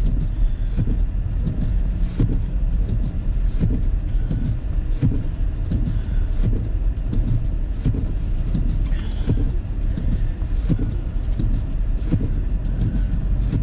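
Car driving on a snow-covered road: a steady low rumble of tyres and engine, with frequent irregular thumps and knocks.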